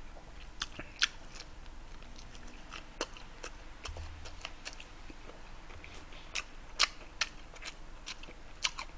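A man chewing a mouthful of gimbap close to the microphone, with scattered mouth clicks, more of them in the second half.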